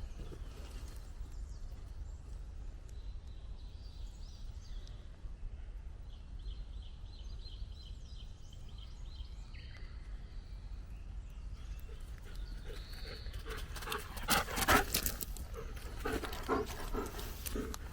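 Footsteps on the forest floor, with a cluster of louder, sharper steps about fourteen seconds in and a few more near the end, over quiet forest ambience with faint high calls in the middle.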